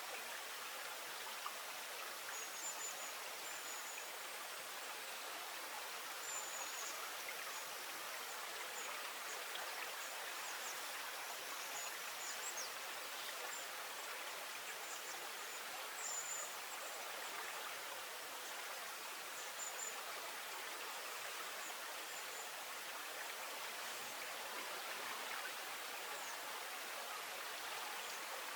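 Steady flowing water, a river or stream running with an even hiss, with scattered short high chirps throughout.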